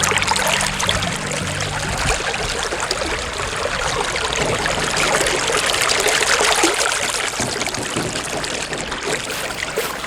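Running water: a stream trickling and rushing steadily.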